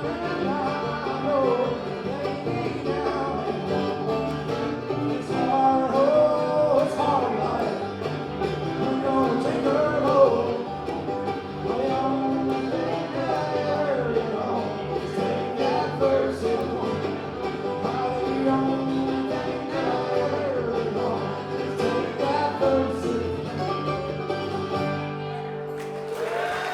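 A bluegrass band playing live, string instruments picking a song to its close, with applause starting right at the end.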